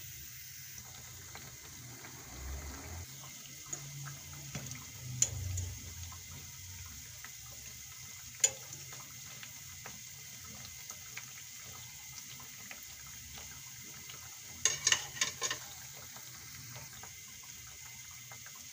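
Besan (gram-flour) fritters sizzling steadily in hot oil in a frying pan. A few sharp taps of a metal fork on the pan as the fritters are turned, with a quick cluster of them about fifteen seconds in.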